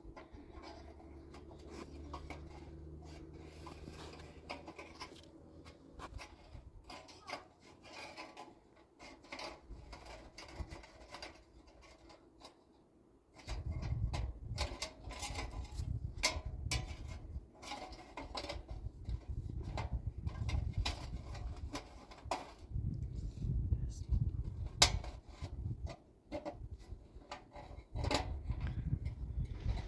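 Scattered knocks and clatter of things being handled. From about halfway through, wind buffets the microphone in gusts as a low rumble.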